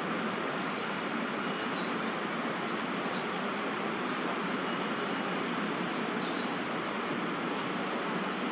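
Steady hum of distant city traffic, with small birds chirping in quick groups of short, high, falling notes throughout, and a thin steady high whine above.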